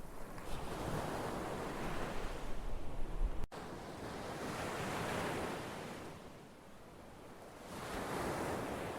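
Ocean surf: waves breaking and washing in, swelling and fading three times. There is a sudden brief dropout about three and a half seconds in, and the low rumble under the first wave stops there.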